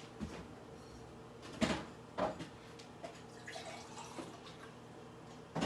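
Microwave oven running with a steady low electrical hum while it heats an egg poacher. Two brief louder sounds come about one and a half and two seconds in.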